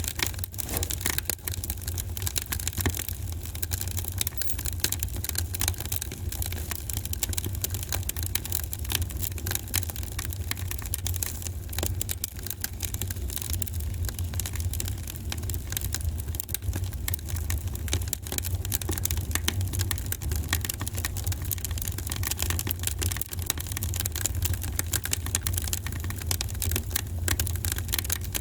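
Wood fire in a fireplace crackling with a dense, unbroken run of small snaps and pops over a steady low rumble.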